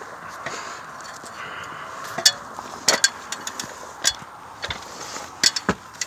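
Irregular light knocks and clicks, about half a dozen, over a steady hiss.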